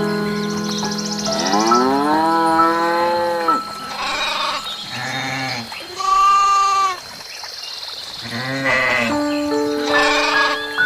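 Farm animals bleating, about six separate calls, some wavering, over background music with long held notes.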